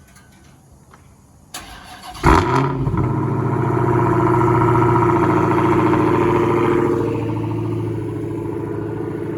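2016 Dodge Challenger Hellcat's supercharged 6.2-litre V8, with its mid mufflers removed and the resonators kept, cold-starting. The starter cranks briefly about a second and a half in, then the engine catches with a loud flare and runs at a high, steady cold idle. A couple of seconds before the end the idle settles lower.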